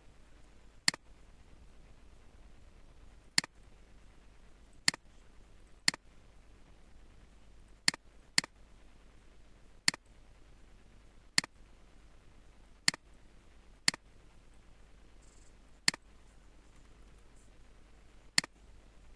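Computer mouse clicking: about a dozen single sharp clicks, spaced irregularly one to two seconds apart, over a faint steady low hum.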